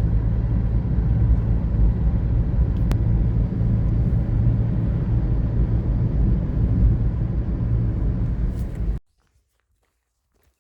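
Loud, steady low rumble that cuts off suddenly about nine seconds in.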